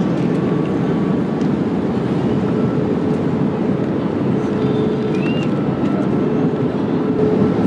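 Airliner cabin noise in cruise flight: a steady, even rush of engine and airflow noise with a faint constant hum through it.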